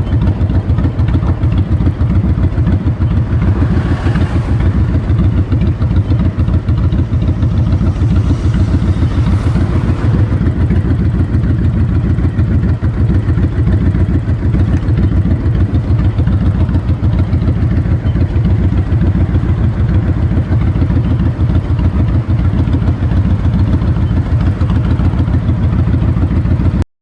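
Honda VTX 1300's V-twin engine running through its exhaust at a fairly steady speed, a dense run of low firing pulses, with wind noise on the microphone. The sound cuts off abruptly at the very end.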